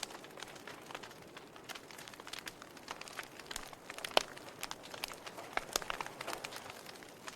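Wood fire crackling in a fireplace: irregular sharp pops and snaps over a soft steady hiss, with one louder pop about four seconds in.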